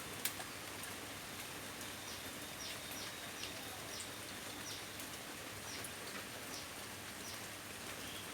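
Steady hiss of rain, with a bird repeating short, high, downward chirps about twice a second through the middle.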